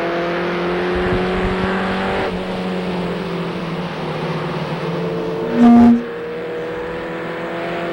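Racing trucks' engines running at speed around a short oval, several engine tones layered together and holding steady. A brief loud tone cuts in a little past halfway.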